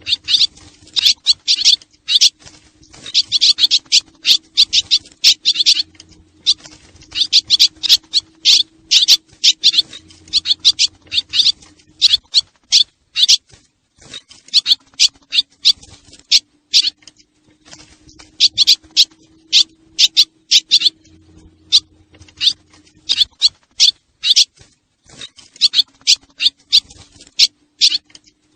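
Swallows' twittering calls: dense, rapid high chirps in runs of a few seconds, pausing briefly about twelve seconds in and again near twenty-three seconds. This is a recorded swallow lure call, with a faint steady low hum underneath.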